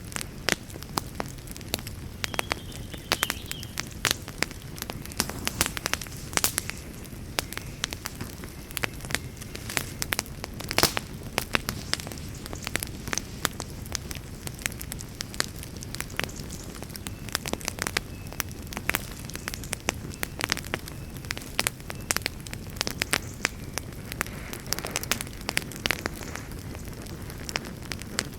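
Campfire burning with frequent irregular sharp crackles and pops of burning wood over a steady low rumble of the flames.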